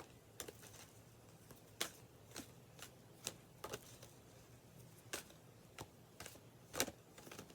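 Tarot cards being handled and shuffled: about a dozen short, irregularly spaced clicks and snaps.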